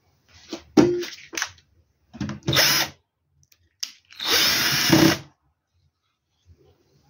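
Cordless drill-driver running in three short bursts, the last and longest about a second, as it tightens the inverter's PV cable terminals.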